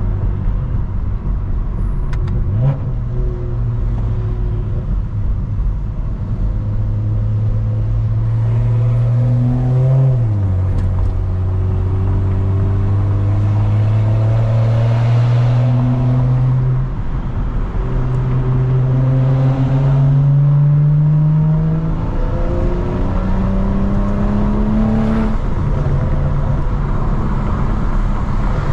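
Straight-piped BMW E92 335i with its N55 turbocharged straight-six, running under steady acceleration: the exhaust note climbs slowly in pitch, then drops with an upshift about ten seconds in, again around seventeen seconds, and once more near the end, climbing again after each shift.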